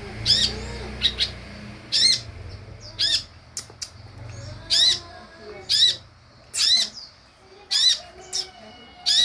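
Sunbird (kolibri ninja) calling: a short, sharp, high chattering call repeated about once a second, as used to lure caged sunbirds into answering.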